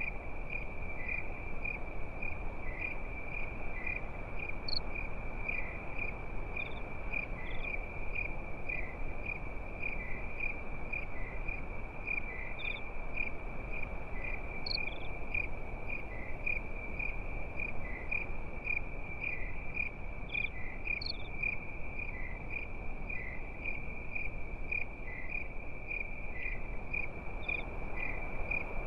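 Crickets chirping at night: a steady high trill with a regular pulse, other insects adding occasional higher chirps every few seconds, over a steady low hiss.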